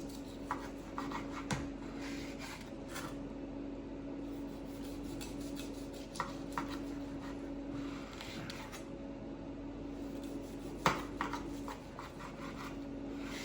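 A knife sawing through the crusty bark of a smoked brisket, with rasping strokes and scattered sharp knocks of the blade against the cutting board; the loudest knock comes near the end. A steady low hum runs underneath.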